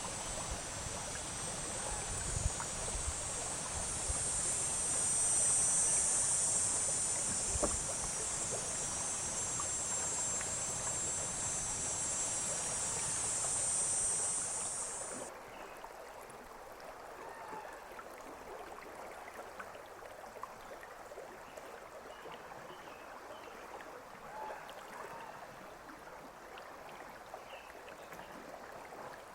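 River water flowing past a canoe: a steady rushing hiss with a few low knocks in the first half, cutting off suddenly about halfway, then quieter running water with small gurgles.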